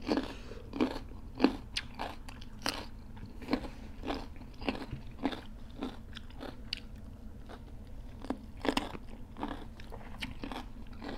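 Close-miked biting and chewing of raw cucumber: a run of sharp crunches, one every half second to a second.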